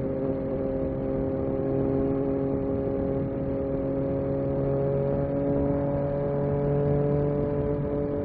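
Yamaha MT-09 SP's three-cylinder engine running steadily under way, its pitch creeping slowly upward as the bike gently gains speed.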